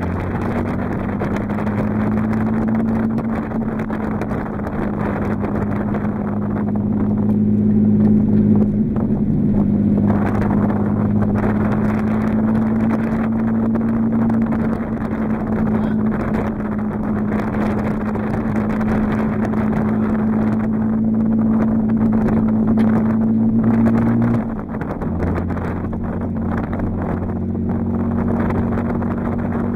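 Golf 2 R32 BiTurbo's turbocharged VR6 engine running steadily while the car cruises, a constant droning note heard inside the cabin. About 25 seconds in, the note drops slightly lower.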